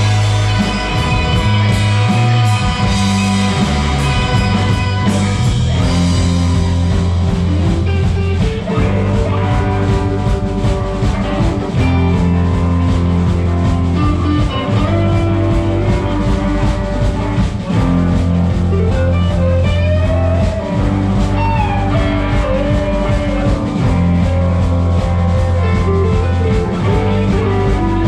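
A rock band plays an instrumental passage live: electric guitars over a steady bass line and drum kit. In the second half a guitar line slides and bends between notes.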